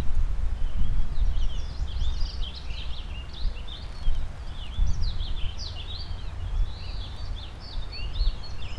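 A chorus of small songbirds chirping and warbling over a steady low rumble of wind and river water.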